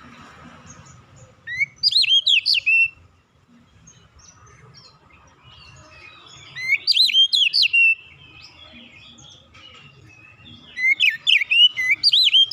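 Oriental magpie-robin (kacer) singing in three short phrases of quick, sweeping whistled notes, a few seconds apart.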